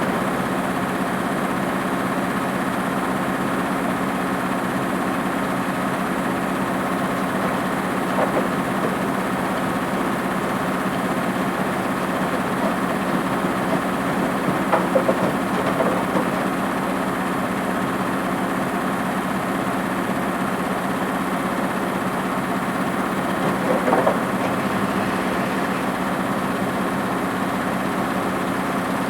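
Washing machine running: a steady motor hum with a few short rattles, at about 8, 15 and 24 seconds in.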